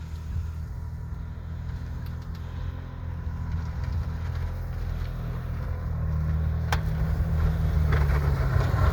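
Engine of a snow-clearing machine running steadily and slowly getting louder, with a single sharp click about two-thirds of the way in and a noisy rush building near the end.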